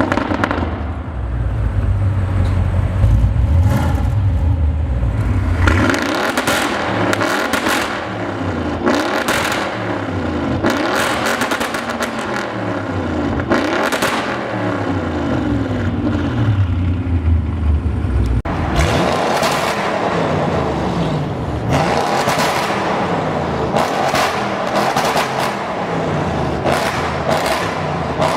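Audi RS7's twin-turbo 4.0-litre V8 accelerating hard, its pitch rising again and again as it climbs through the gears. It starts with a deep rumble, and about two-thirds of the way through the sound turns brighter as another run of rising revs begins.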